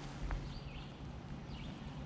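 Wild birds chirping in short, repeated sweeping notes over a steady low outdoor rumble, with one brief click about a third of a second in.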